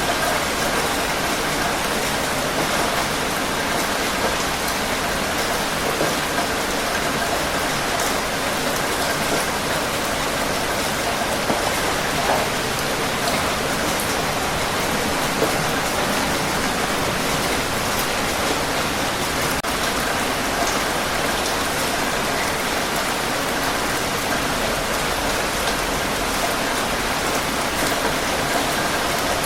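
Steady heavy rain falling and pattering on a surface, an even wash of sound with many small drop ticks.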